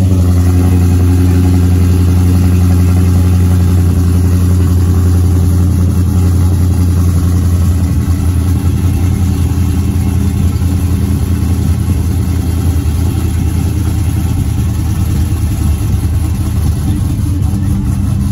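A car engine running steadily at low revs, a deep even hum with no revving.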